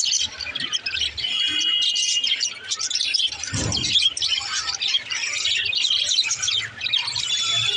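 Budgerigars chattering and warbling continuously in a dense stream of high chirps, with a brief low thump about three and a half seconds in.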